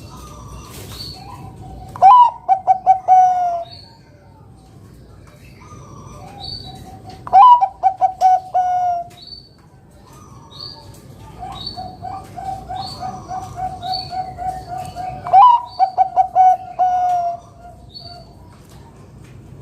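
Zebra dove (perkutut, Bangkok type) cooing its song. There are three loud phrases, each a short rising note followed by a rapid run of clipped coos lasting about a second and a half. A softer run of repeated coos comes before the third phrase.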